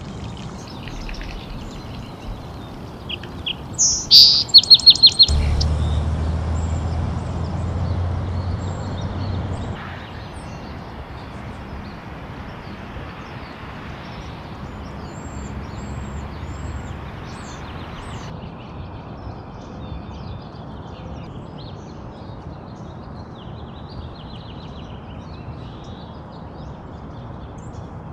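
Birds chirping along a river over a steady hiss of running water. About four seconds in, a bird gives a loud, quick series of about six sharp calls, and a low rumble follows for several seconds.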